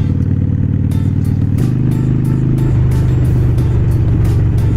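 Harley-Davidson Iron 883's air-cooled 883 cc V-twin running while the bike is ridden, with pop music playing over it.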